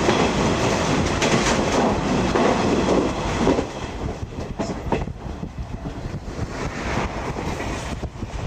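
Running noise of a Series 50 passenger coach heard from inside: wheels rumbling on the rails with clicks over the rail joints. The noise drops noticeably about three and a half seconds in.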